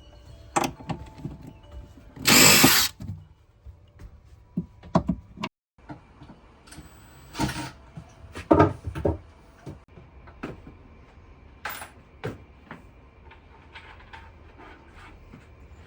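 Van interior teardown: scattered knocks and clatter of wooden panels and framing being pulled apart, with a short burst of a power tool about two seconds in.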